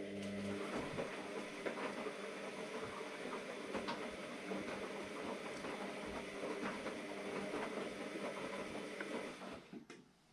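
AEG Lavamat Turbo washer-dryer running a wash cycle: the motor hums steadily while the load splashes and clicks in the drum, then stops suddenly near the end.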